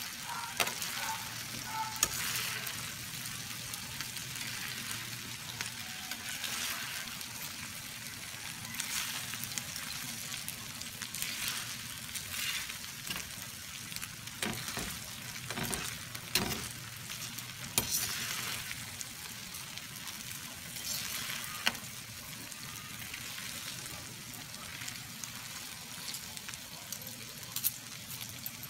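Chopped chicken, gizzard, liver and tofu sizzling in a shallow metal pan while a slotted metal turner stirs and scrapes through it. Sharp clicks of metal on the pan come now and then over a steady frying hiss.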